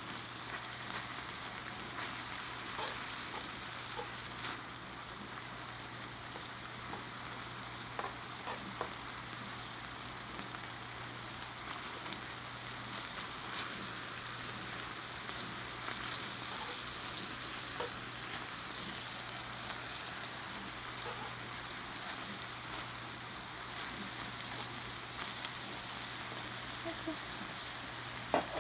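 Bulgogi beef sizzling steadily in an oiled frying pan, with a few light clicks of a utensil stirring against the pan.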